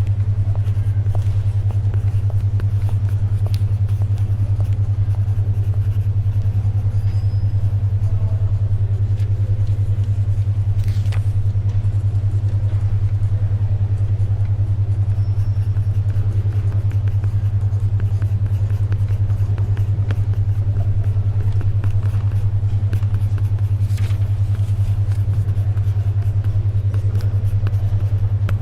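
A steady low hum of about 100 Hz, pulsing fast and evenly: a 10.2 Hz alpha brainwave (binaural-beat) tone. Beneath it is faint library background sound with a couple of soft paper rustles.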